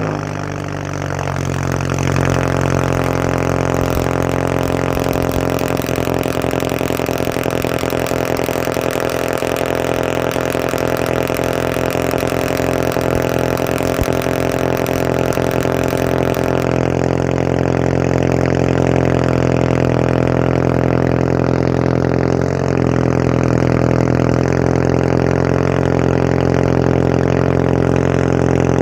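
Turbocharged MK6 Volkswagen Jetta idling steadily just after a cold start, through a downpipe and straight pipe with no muffler or resonator. The exhaust note is loud and raspy.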